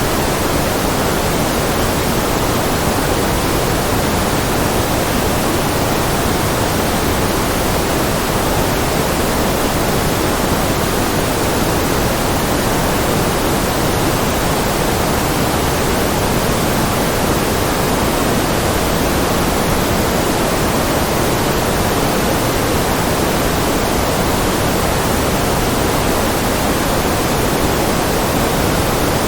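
Steady, unchanging white noise: an even hiss spread across all pitches, with nothing else in it.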